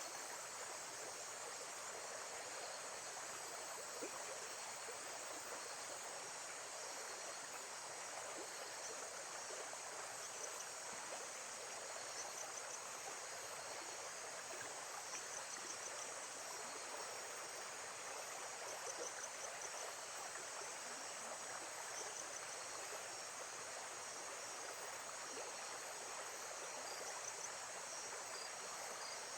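Nature ambience of steadily running water, with small high insect chirps repeating over it.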